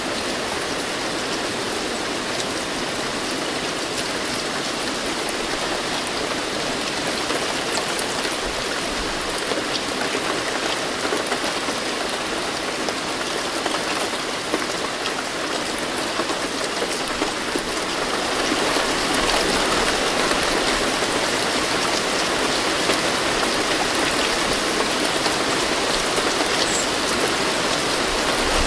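Steady rain falling, an even hiss of many drops, growing a little louder about eighteen seconds in.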